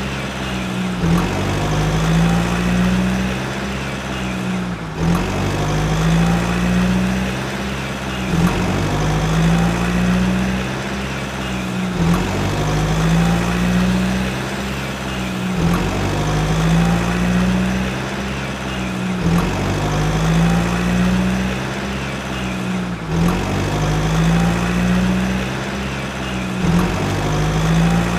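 A recorded tractor-engine sound effect, as played from a toy tractor's speaker, running steadily and repeating in an identical loop about every three and a half to four seconds.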